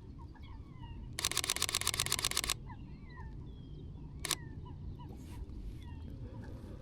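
Sony A6700 camera shutter firing a rapid burst of clicks for about a second and a half, then a single shutter click about four seconds in. Faint bird chirps run underneath.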